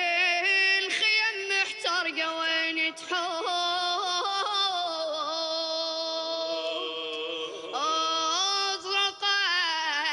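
A solo voice singing a Husseini abudhiya lament, holding long notes that waver with quick vocal trills and slide between pitches.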